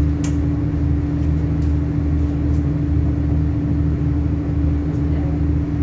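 Interior of an Iarnród Éireann 29000 class diesel multiple unit running at speed: a steady low rumble from the running gear and underfloor diesel engine, with a constant hum on top.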